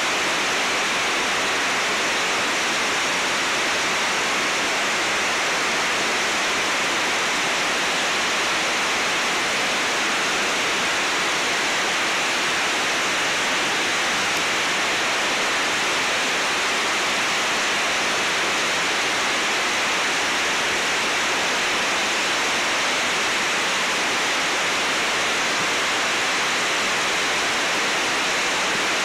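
Waterfall (Onogawa Fudō Falls) rushing steadily: an even hiss of falling water that holds constant.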